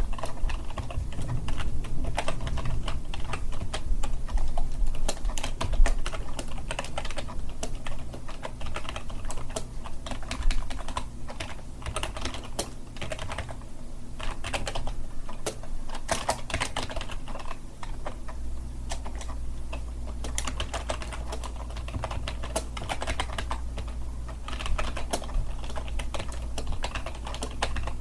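Typing on a keyboard: a continuous stream of fast, irregular key clicks, over a low steady hum.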